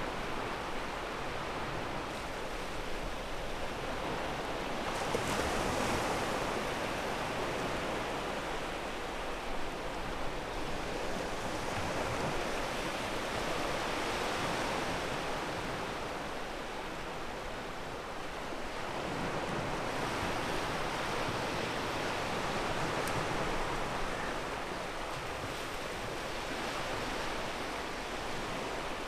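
Sea waves washing onto a pebble beach: a continuous rush of surf that swells and eases every several seconds.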